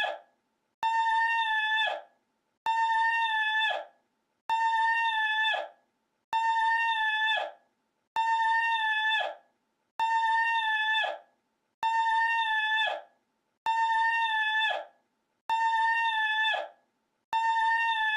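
A single high, steady-pitched cry looped over and over: about ten identical calls, one roughly every 1.8 seconds, each about a second long, starting sharply and fading off at the end.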